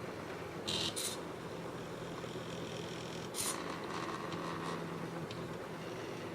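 Small stepper motors of a DIY mini CNC plotter running with a steady hum and whine, with two short scratchy sounds, one about a second in and one about three and a half seconds in.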